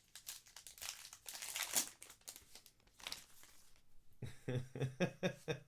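A baseball card pack's plastic wrapper being torn open and crinkled. The crackling is loudest about two seconds in, then dies away.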